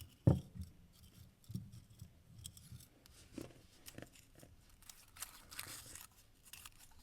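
Folded paper slips rustling and crackling as the next name is drawn from the cauldron and unfolded, with a sharp thump about a third of a second in.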